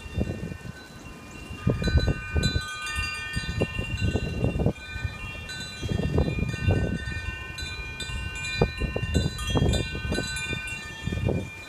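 Wind chimes ringing in gusty wind, several tones sounding and overlapping. Gusts of wind buffet the microphone in repeated low rumbles throughout.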